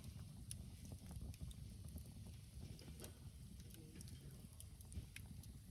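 Campfire burning: faint, scattered crackles and pops from the burning wood over a low, steady rumble.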